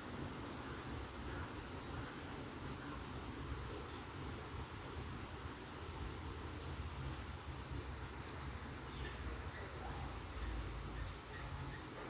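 A steady high-pitched insect trill, like crickets, with a few short high bird chirps from the middle to the end, the clearest just past 8 seconds. A low rumble runs underneath.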